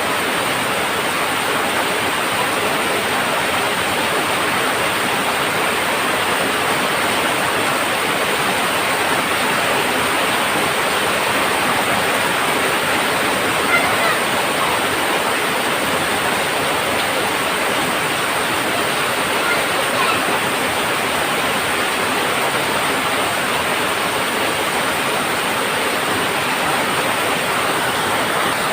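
Heavy rain drumming steadily on a tin roof, a dense even patter, with a couple of slightly louder hits about halfway through and again a few seconds later.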